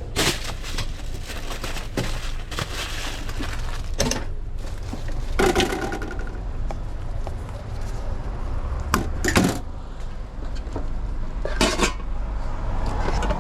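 Clatter of kitchen utensils and containers as a hot dog order is put together: scattered clinks, knocks and scrapes of metal and hard plastic, the loudest about five and a half seconds in and again around nine seconds, over a steady low hum.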